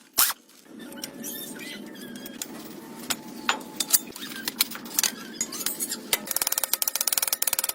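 Workshop work on an old tractor: scattered sharp metallic clicks and knocks over a low steady hum, then a fast, even run of clicks starting about six seconds in.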